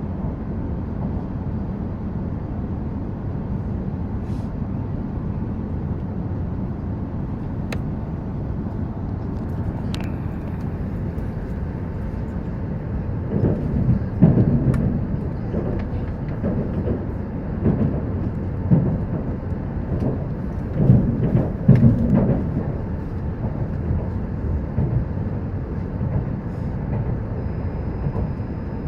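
Hokuriku Shinkansen E7/W7-series train running, heard from inside the carriage as a steady low rumble. About halfway through come several louder, irregular low knocks and surges, then the steady rumble returns.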